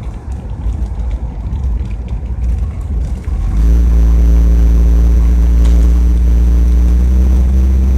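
Motor vehicle engine and rumble: an uneven low rumble for the first three and a half seconds, then a steady low engine drone.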